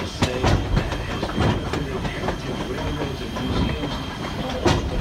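Train cars rolling along the track: wheels clicking over rail joints with irregular knocks and rattles over a steady rumble, and a sharper knock near the end, heard from aboard a moving caboose.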